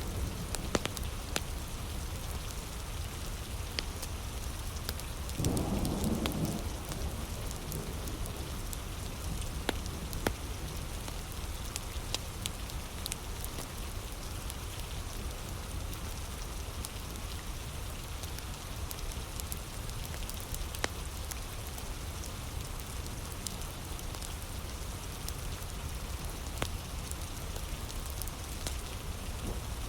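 Heavy rain falling steadily, with a wood fire crackling in sharp scattered pops, and a short low rumble about five seconds in.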